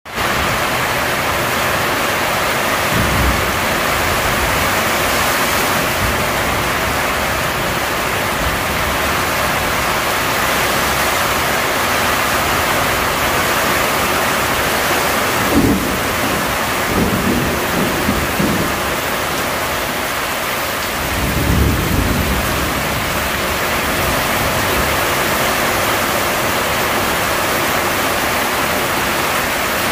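Heavy tropical rain falling hard and steadily. A few low rumbles, likely thunder, swell up near the middle.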